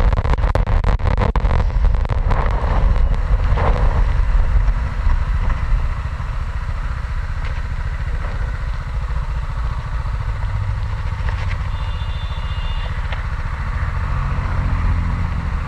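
BMW motorcycle ridden fast on the open road: engine running under load with wind rushing past, a little louder for the first few seconds, then steady.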